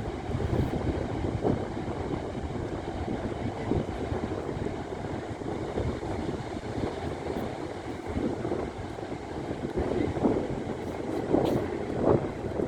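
Wind buffeting the microphone: a steady low rumble with no clear rhythm, a little stronger near the end.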